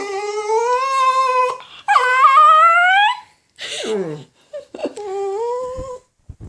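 Pomeagle (beagle-Pomeranian mix) whining in four long, drawn-out cries, the second rising in pitch and the third falling: separation distress at being left behind.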